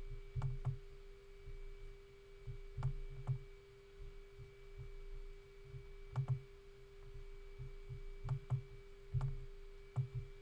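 Computer mouse clicks and low desk knocks, often in pairs, every second or two over a steady electrical hum.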